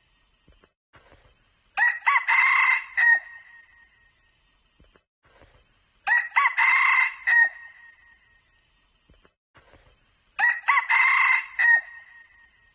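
Red junglefowl cock crowing three times, about four seconds apart; each crow is short, loud and clear, with a clipped ending.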